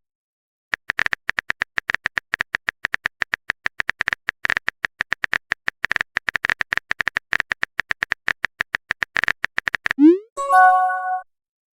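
Rapid typing clicks, about eight a second, for most of the stretch. Near the end comes a quick rising pop and a short bright chime, a chat app's new-message notification sound.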